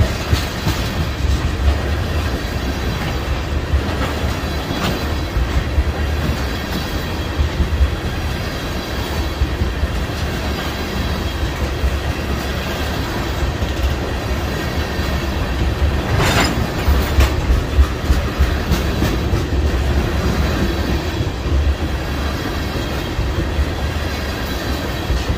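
A freight train of tank cars rolling past close by: a steady rumble of steel wheels on rail, with irregular clacking over the rail joints. A brief sharp noise stands out about sixteen seconds in.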